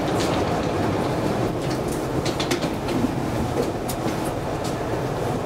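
Metro train running through the station: a steady rumble with a few short clicks and clacks in the middle.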